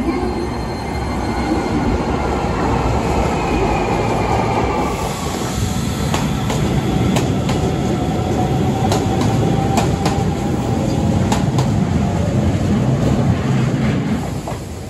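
Electric commuter trains at a station platform: a steady running rumble with a faint whine that slowly falls in pitch over the first few seconds. Then an Osaka Metro local train runs along the platform, its wheels clicking sharply over the rail joints, and the noise drops off near the end.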